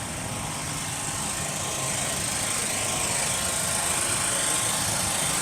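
Motorcycle engine running, growing gradually louder.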